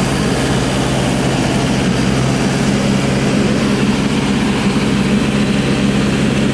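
Heavy diesel engine running steadily at a constant speed, a loud, even low note with no change in pitch.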